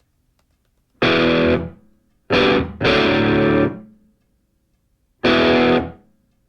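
Distorted electric guitar music: four loud struck chords, each ringing briefly and fading, with short silences between them.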